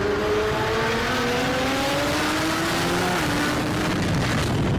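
Street-racing car accelerating hard down the road. Its engine note climbs steadily, drops suddenly at a gear change about three seconds in, then holds.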